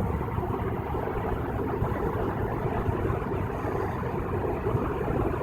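Steady road and tyre noise of a car cruising on a freeway, heard from inside the cabin.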